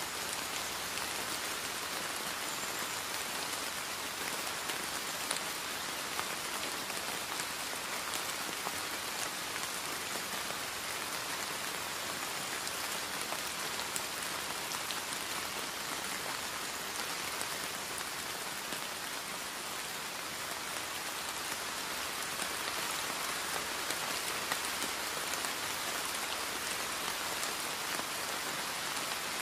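Heavy rain falling steadily into standing floodwater, a dense even hiss with scattered individual drop splashes.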